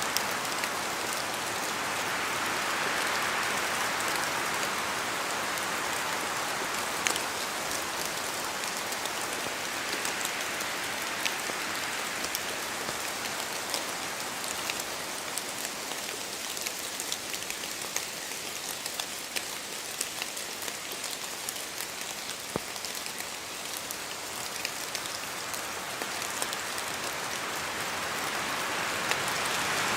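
Steady rain in a forest, with scattered sharp drops falling from the trees. The hiss swells louder a few seconds in and again near the end.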